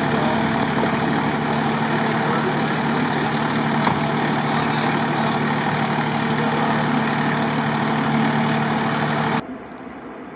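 A heavy engine running steadily at idle, with a steady hum and a rushing hiss over it. It cuts off suddenly about a second before the end.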